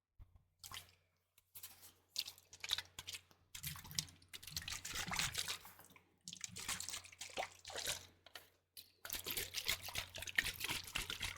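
Liquid sloshing and squishing close to a microphone in quick wet crackles and drips. It comes in bursts, busiest from about four seconds in, with short breaks about six and nine seconds in.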